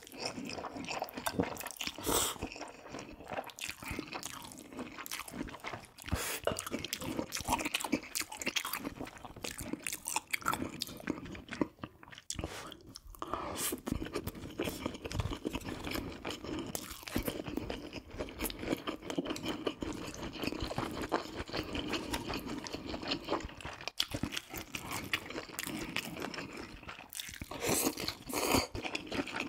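Close-miked chewing and crunching of food, a dense run of wet mouth clicks with a short lull about twelve seconds in.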